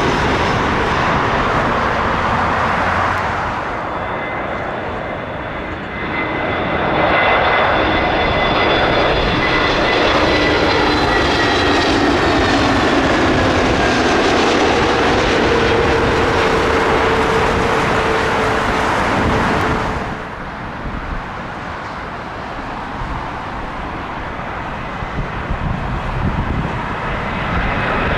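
Jet airliner engines roaring as aircraft pass low overhead on approach to land, with a whine that slowly falls in pitch. The sound changes abruptly about three to four seconds in and again about twenty seconds in, as one aircraft gives way to the next.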